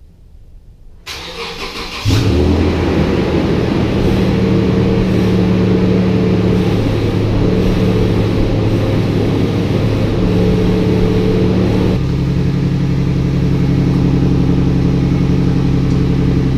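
2006 Toyota Tundra engine cold-started after sitting for a week: the starter cranks for about a second, then the engine catches and runs at a wavering fast idle. Near the end it settles to a steadier idle.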